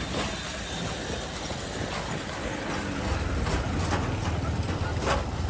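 Vehicle engine rumbling in road traffic, the low rumble growing stronger about three seconds in, with a few short sharp knocks.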